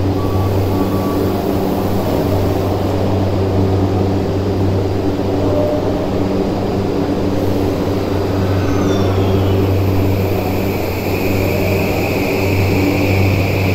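Tokyu 2020 series electric train standing with a steady electrical hum, then starting to pull out from about eight seconds in with a rising electric whine from its traction motors that builds as it accelerates.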